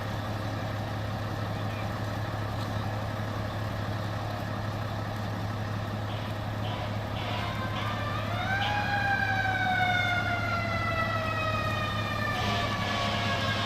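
Fire engine siren sweeping up sharply about eight seconds in, then sliding slowly down in pitch, over a steady low engine rumble.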